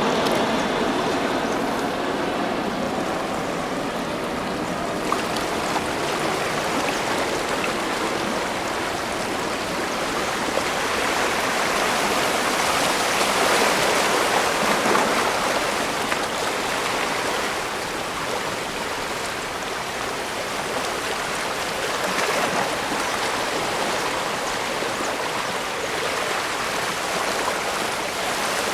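Steady rushing and splashing of water, continuous throughout. A low steady hum underlies the first few seconds and stops about five seconds in.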